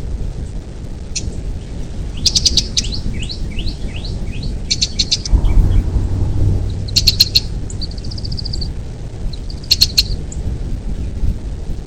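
Birds calling: several bursts of high chirps and a run of quick downward-slurred whistled notes, over a steady low rumble.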